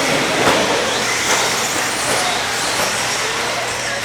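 Radio-controlled 2wd trucks racing around a track: a steady blend of motor whine and tyre noise, with pitch rising and falling as the trucks speed up and slow down.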